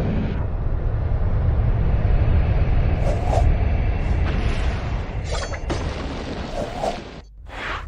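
Loud, steady low rumbling noise, broken by several abrupt cuts.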